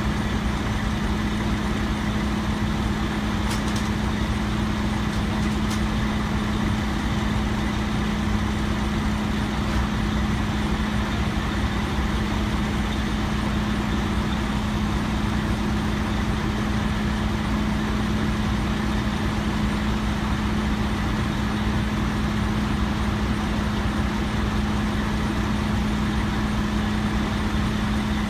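Heavy truck diesel engine idling steadily, with a constant low hum.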